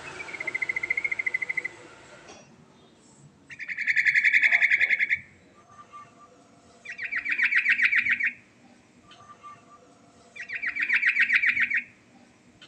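Yellow-vented bulbul (trucukan) singing four rapid trilling phrases, each about a second and a half long and coming roughly every three seconds. A hiss lies under the first phrase.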